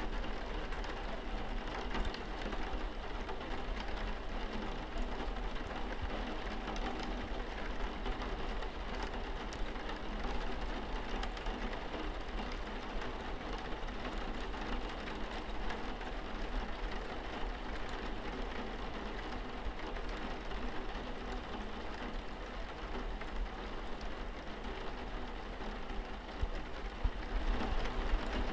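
Steady rain falling on a window pane, with a constant low rumble underneath.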